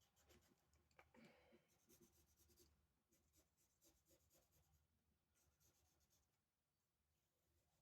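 Faint scratching of a drawing tool stroking across paper, in short runs of strokes with brief pauses.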